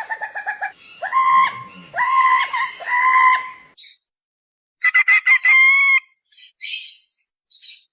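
A bird giving repeated chicken-like clucking calls: a run of four or five for the first few seconds, then, after a sudden break, a quicker cluster of calls about five seconds in.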